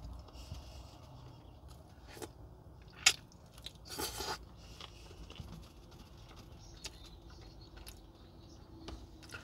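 Close-up mouth sounds of a person biting and chewing a stewed chicken drumstick, wet and smacking, with a few sharp clicks, the loudest about three seconds in, and a louder bite about four seconds in.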